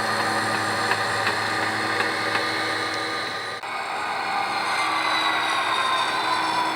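HO-scale model diesel locomotive running, its sound decoder playing a steady diesel engine sound over the motor and gear whine of the model's drive. The whine falls in pitch over the last few seconds.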